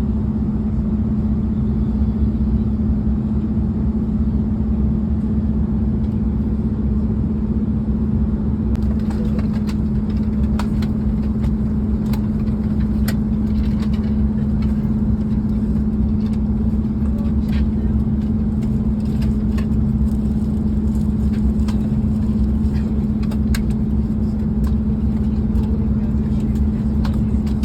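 Airliner cabin noise: a steady engine and airflow drone with a constant hum. From about nine seconds in there are scattered light clicks and rattles.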